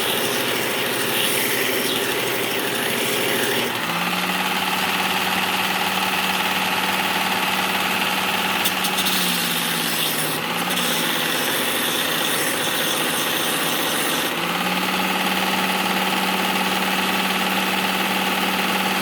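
Work Sharp Ken Onion belt sharpener running steadily as the steel tip of a pickaxe is ground on the belt. The motor's tone steps up about four seconds in, wavers briefly near the middle, and steps up again about two-thirds of the way through.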